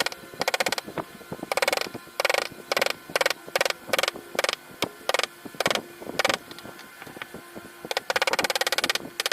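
Hand tool scraping carved shisham wood in short, rattling strokes, roughly one and a half a second. Near the end the strokes run into longer continuous scrapes.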